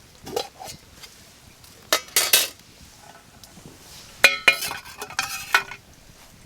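Metal utensils clinking and scraping against metal cookware in three short bouts, the last and longest with a ringing tone.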